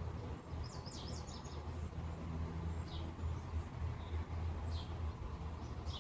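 Small birds chirping: a quick run of high chirps about a second in, then single short chirps every couple of seconds, over a steady low outdoor rumble.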